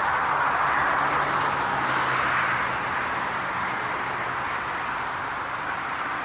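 Jet airliner engine noise, a steady rush that slowly fades from about halfway through as the aircraft moves away.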